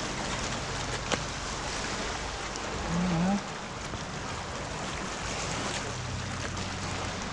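Steady wash of sea water along a rocky shore, with wind; a single click about a second in and a brief low hum about three seconds in.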